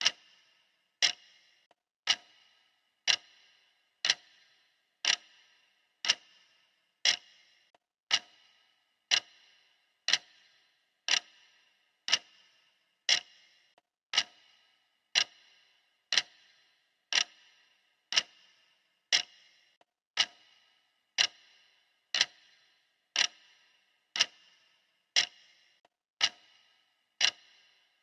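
Clock ticking steadily, one sharp tick about every second, each with a brief ring after it.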